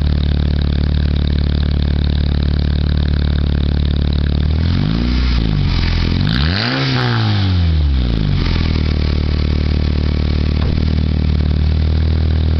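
2006 Honda Civic's four-cylinder engine idling steadily through its exhaust. It is blipped twice about five and six and a half seconds in, the second rev higher and longer, then settles back to idle.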